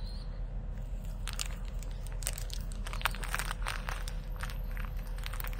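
A person chewing sriracha chicken jerky close to the microphone: soft, irregular crackly clicks of a mouthful being worked.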